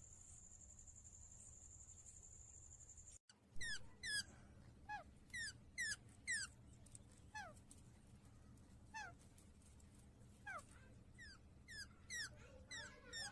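Pet parrot giving short, high-pitched squeaky calls, each sliding downward, about one or two a second from about three seconds in. Before them a steady high-pitched trill runs and cuts off abruptly.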